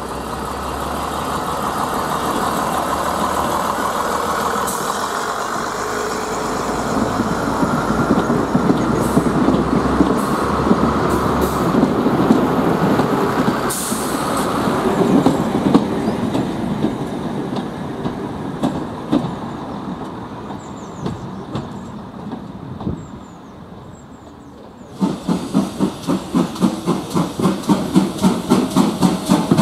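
BR Class 108 diesel multiple unit pulling out and rolling past, its diesel engines running under the rumble and clatter of wheels on rail, fading as it draws away. About 25 seconds in this cuts to a GWR Manor class 4-6-0 steam locomotive coming in with a steady beat of a little over two a second.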